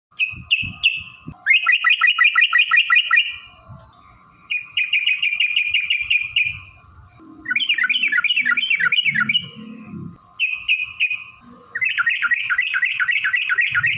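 Yellow-vented bulbul (trucukan) singing: three short notes, then four bouts of fast, bubbling chattering notes, about six a second, each bout lasting a second or two with short pauses between.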